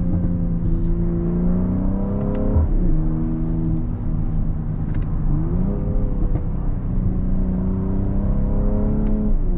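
Mercedes-AMG GLC 43's twin-turbo V6 engine pulling while driving. Its note climbs and holds steady, then falls away, and this happens twice.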